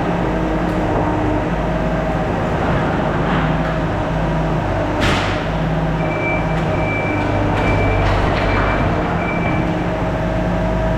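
Skid steer engine running steadily, its pitch shifting a little as it works, with a sharp knock about five seconds in.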